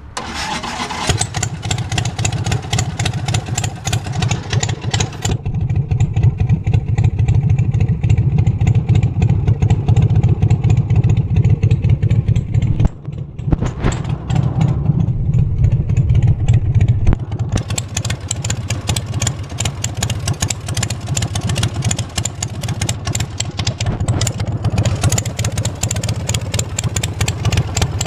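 Harley-Davidson Sportster 1200cc V-twin engine in a pulling tractor starting up and running loud. The sound dips briefly about halfway through, then picks up again.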